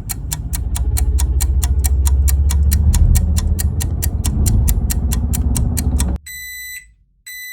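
Stopwatch-style ticking sound effect, about four to five ticks a second, over a deep steady rumble. Both cut off suddenly about six seconds in and are followed by two short electronic beeps.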